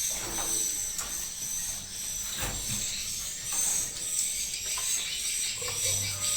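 Swiftlets twittering continuously in high, rapid chirps, with a few scattered knocks and scrapes, the clearest about two and a half seconds in.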